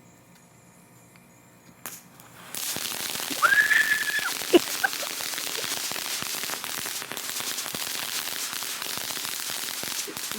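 Small consumer firework going off about two and a half seconds in: a sudden loud hissing and crackling spray of sparks that keeps going, with a short whistle a second later and a sharp pop. Before it lights, faint steady insect chirping.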